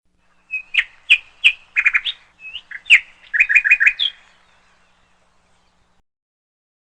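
A songbird singing a short phrase of quick high chirps and rapid trills, lasting about three and a half seconds.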